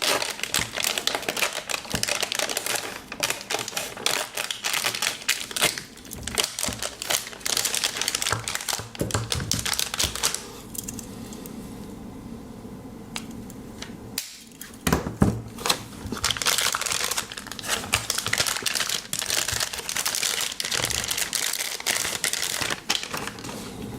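Plastic anti-static bag crinkling and crackling as it is handled and pulled off a 3.5-inch hard drive. There is a quieter pause in the middle with a couple of light knocks, then more crinkling.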